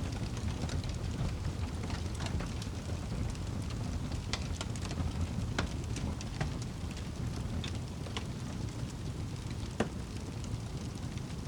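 Wood fire crackling: small irregular pops and snaps over a steady low rumble, with one sharper pop near the end.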